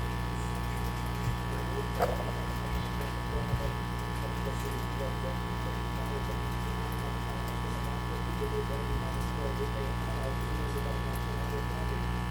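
Repaired hot air rework station running under test: a steady electrical hum with its blower going, and a single click about two seconds in.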